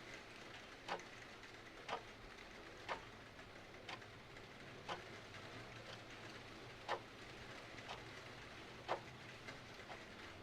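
Clock ticking about once a second, some ticks louder than others, over a steady hiss of rain.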